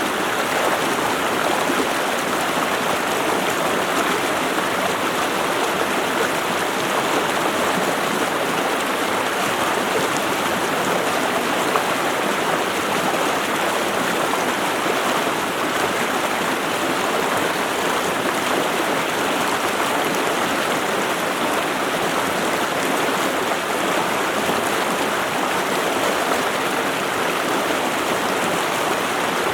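Running water in a stream: a steady, unbroken rush.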